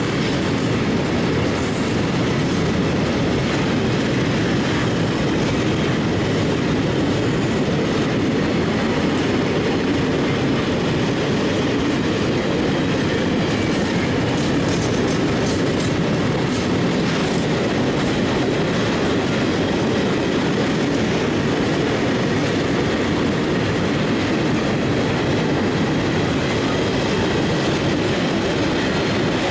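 A train rolling past, its wheels running steadily on the rails with an unbroken rumble.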